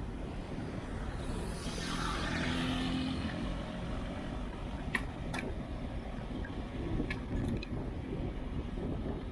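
Wind buffeting the microphone with a steady low rumble while riding along a road, and a motor vehicle passing close by about two seconds in. A few sharp clicks follow in the second half.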